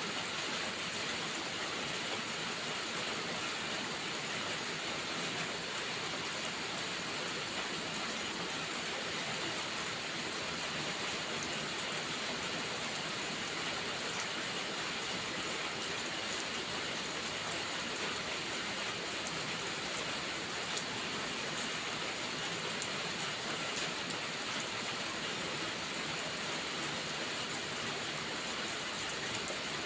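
Steady rain falling, an even unbroken hiss with a few faint ticks.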